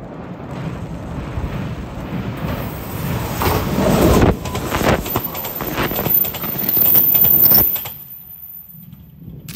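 JR 381 series limited express electric train passing close by: a loud rush of wheel and running noise with a run of clacks from the wheels over the rail joints. Loudest about four seconds in and again around seven seconds, it drops sharply near eight seconds as the last car goes by, then fades.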